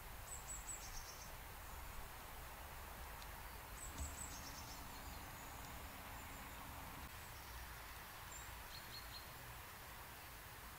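Faint woodland ambience with small birds giving short runs of thin, high chirps, three times: near the start, about four seconds in and about nine seconds in.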